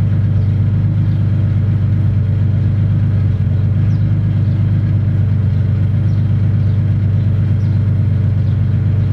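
1999 Ford Explorer Sport's 4.0-litre SOHC V6 idling steadily through a Dynomax Bullet race muffler, still on its raised idle after a cold start. It gives a deep, even exhaust note.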